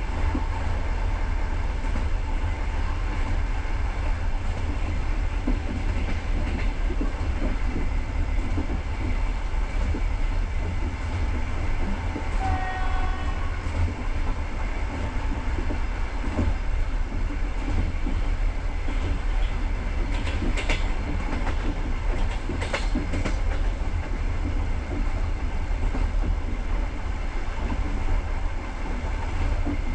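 Passenger train running along the line, heard from inside a carriage: a steady low rumble of wheels on the rails, with a few clicks of rail joints later on. A brief high pitched tone sounds about halfway through.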